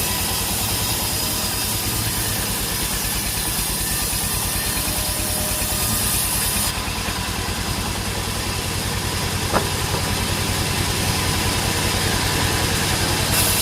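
A sawmill's engine running steadily at idle with a fast, even beat. A high hiss over it drops away about halfway through, and a single sharp click comes about two-thirds of the way in.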